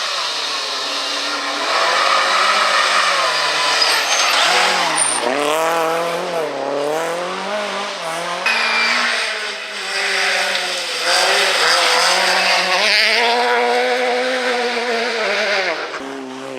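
Rally car engines revved hard, the revs climbing and dropping again and again through gear changes and lifts. The sound cuts abruptly to another run about eight seconds in and again near the end.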